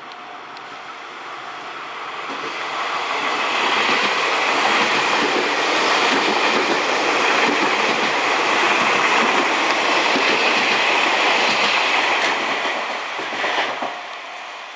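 A Tobu 60000 series electric train running through the station at express speed without stopping. The noise grows over the first few seconds as it approaches, stays loud and steady while the cars pass, then fades near the end after a brief louder burst.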